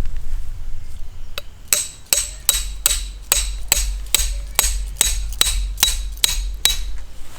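Hammer blows on metal: about fourteen ringing strikes in a steady rhythm of roughly two and a half a second, starting about a second and a half in.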